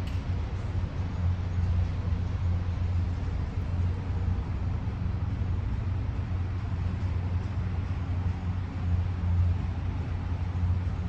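A large engine running steadily, a low even drone that holds its pitch.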